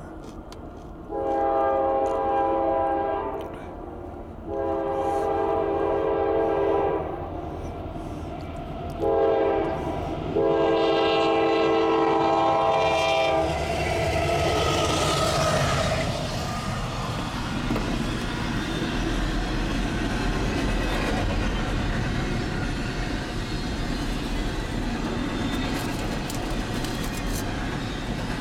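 CSX freight locomotive sounding its multi-chime horn in the grade-crossing pattern: long, long, short, long. The lead locomotives then pass with a falling sweep in pitch, and a steady rumble and clatter of double-stack intermodal well cars rolling by follows.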